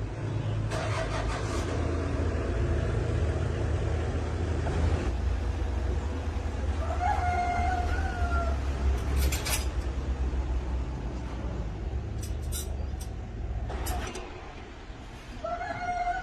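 An engine running with a steady low rumble that drops away about two seconds before the end. A drawn-out animal call sounds twice over it, about seven seconds in and again at the very end, with a few short sharp noises in between.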